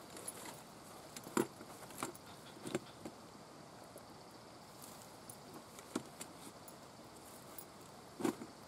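Footsteps on a trail with light metallic clinking of carried gear: a handful of irregular knocks and clicks, the loudest about a second and a half in and near the end, over a faint steady hiss.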